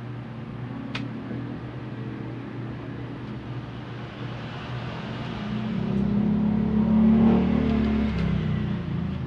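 A motor vehicle passing, growing louder from about halfway and fading near the end, over a steady low hum.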